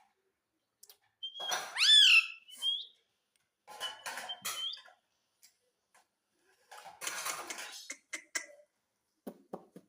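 Pet ringneck parrot calling: a loud squawk with a sharp rise and fall in pitch about a second and a half in, then softer scratchy chatter, a harsh raspy call, and a run of quick clicks near the end.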